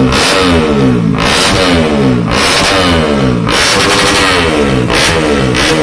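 Bore-up 130 cc Yamaha Jupiter grasstrack racing motorcycle engine revved in repeated throttle blips, about one a second, the pitch falling away after each blip.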